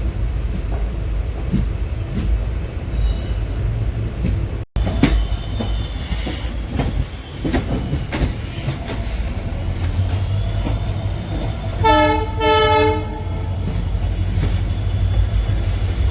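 Passenger train running slowly as heard from inside a carriage: a steady low rumble with faint, wavering wheel squeal. About twelve seconds in, a train horn gives a short double blast.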